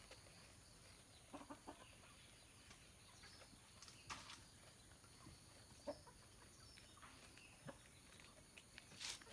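Near silence with a few faint, short animal calls and scattered light clicks.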